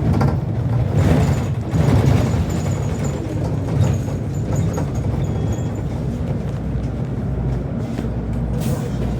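Steady low rumble of a running vehicle, even in pitch, with faint clicks and rattles over it.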